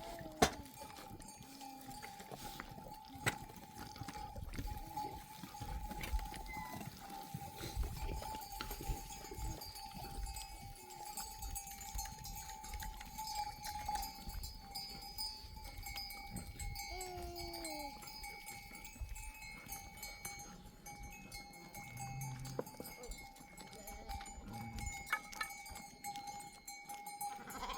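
Bells on a grazing flock of sheep clinking, with a sheep bleating now and then.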